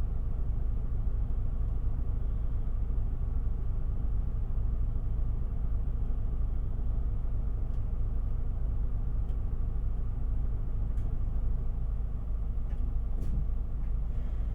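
Inside an Isuzu Erga city bus (QPG-LV234L3) on the move: steady low engine and road rumble fills the cabin. A few faint clicks or rattles come in the second half.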